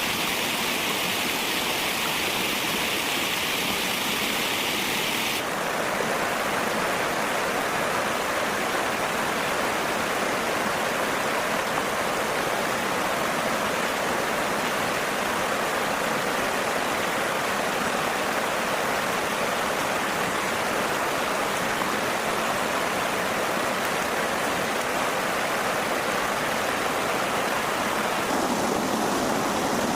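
Steady rushing noise of flowing water. Its tone changes abruptly about five seconds in and again near the end.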